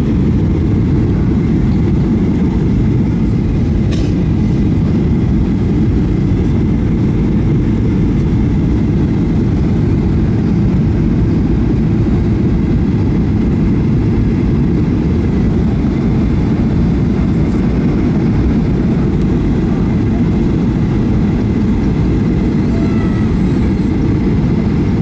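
Steady cabin noise of an airliner in flight: a constant, unchanging low rumble of engines and airflow.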